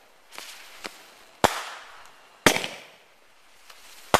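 A large consumer firework going off with sharp bangs: two fainter ones early, two loud ones about a second apart in the middle, and a double bang near the end, each trailing off quickly.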